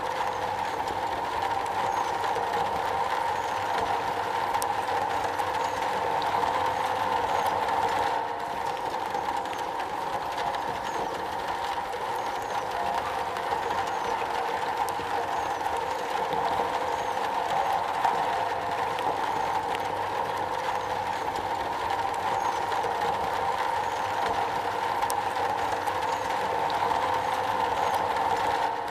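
Heavy rain drumming steadily on a metal roof, a dense even patter that softens slightly about eight seconds in.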